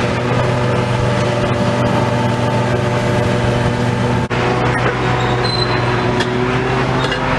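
A large engine running steadily at a constant speed, with a brief drop-out about four seconds in.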